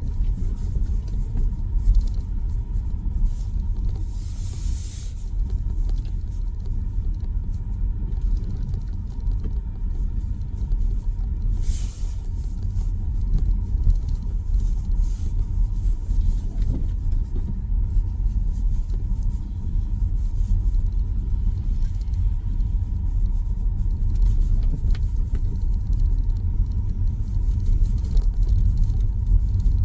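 Steady low rumble of tyre and road noise inside the cabin of an electric Tesla Model Y driving over snow-covered, uneven road. Two brief hisses swell and fade about 4 and 12 seconds in.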